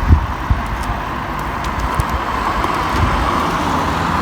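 Road traffic: a motor vehicle running past, with steady tyre and engine noise that grows slowly louder, and a few short low thumps near the start.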